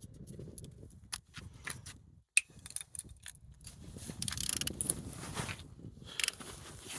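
Hyundai D4EB diesel engine being turned over: scattered mechanical clicks, a sharp click a little over two seconds in, then a denser rasping of turning parts from about four seconds.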